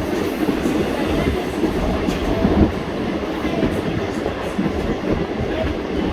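Passenger train running along the track, heard from on board: a steady rumble and rattle of wheels on rails, with a couple of louder knocks about two seconds in.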